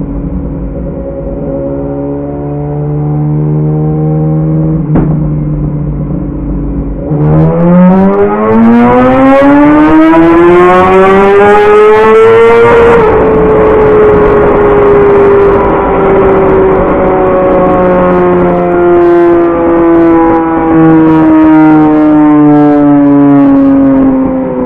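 BMW S1000RR inline-four engine through a full aftermarket exhaust, running steadily at low revs, then about seven seconds in climbing smoothly in revs for around six seconds before slowly winding back down.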